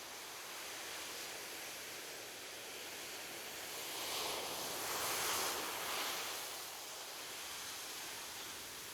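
Ocean waves breaking gently on a shore, a steady wash of surf with one wave swelling louder about halfway through before falling back.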